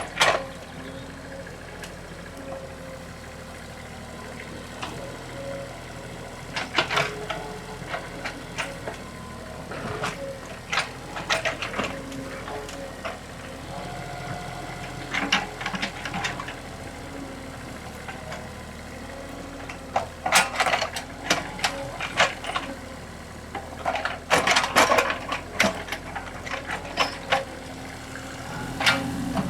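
Excavator's diesel engine running steadily, with intermittent sharp knocks and clanks from the machine working in mud.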